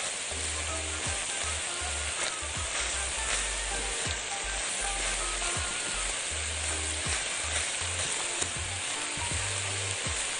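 Beef strips and sliced onions sizzling steadily in a hot frying pan as they are fried to caramelize the onions. They are stirred with a silicone spatula, with a few light knocks against the pan.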